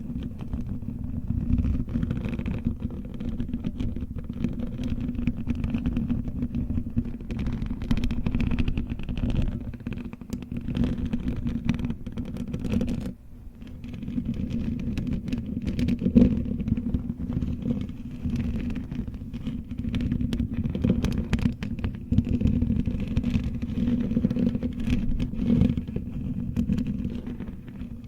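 Fingernails scratching close to the microphone: a continuous low, rumbling scratching texture with many small clicks, pausing briefly about halfway through.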